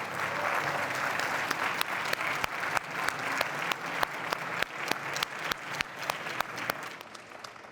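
Conference audience applauding, the clapping thinning and fading out near the end.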